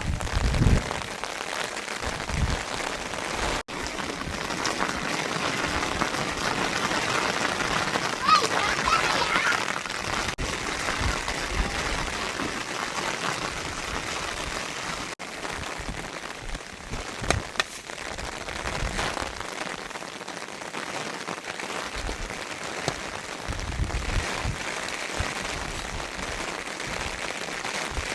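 Heavy rain falling steadily, with a few low thumps near the start and a brief pitched call about eight to ten seconds in.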